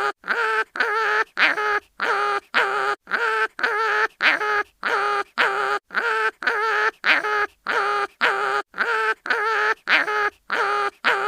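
Cartoon animal crying sound effect: short, nasal pitched cries repeated in a steady loop, nearly two a second, each cry cut off by a brief gap.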